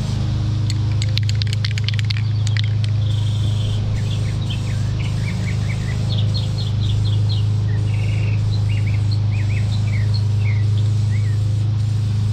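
Small birds chirping and trilling over and over, with a quick run of clicks about a second in, all over a steady low hum.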